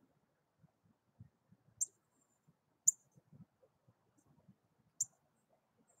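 Three short, sharp, high-pitched chip notes from a small bird, spaced a second or two apart, over faint low rumble.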